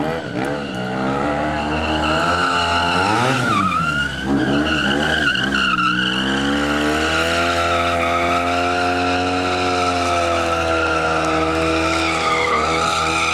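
Motorcycle burnout: the engine is revved up and down several times, then held at high revs for the second half while the rear tyre squeals against the ground.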